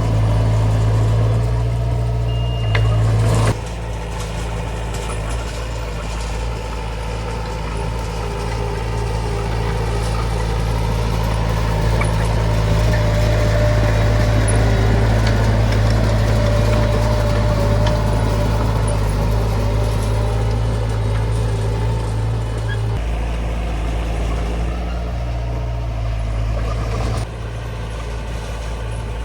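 Diesel engine of a Komatsu D20 bulldozer running steadily with a deep drone. The level drops abruptly about three and a half seconds in and again near the end.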